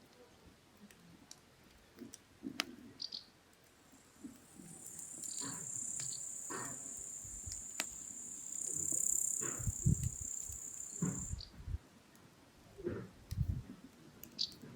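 Wood fire crackling with scattered sharp pops and soft low knocks. An insect stridulates in a steady high buzz, starting about four seconds in and cutting off abruptly about eleven seconds in.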